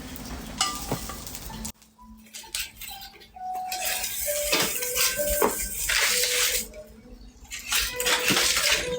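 Metal utensils clinking and scraping against a pan, some strikes leaving short ringing tones, with stretches of hissing like food sizzling in hot oil.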